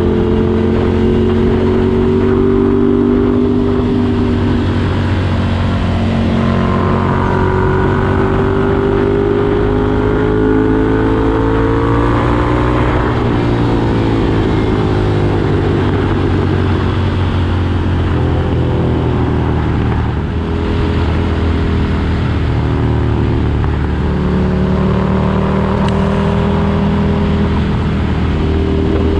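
Ducati Desert Sled's air-cooled L-twin engine running through a Competition Werkes aftermarket exhaust, steady and loud. The engine pitch climbs slowly, drops away quickly about halfway through, then climbs again near the end.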